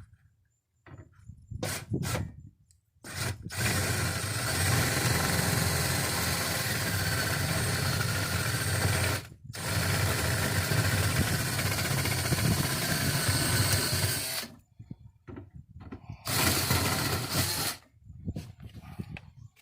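Power drill boring out the aluminum body of a stubborn pop rivet holding a car door handle: a few short blips of the trigger, then two long steady runs with a brief stop between, then a shorter run near the end.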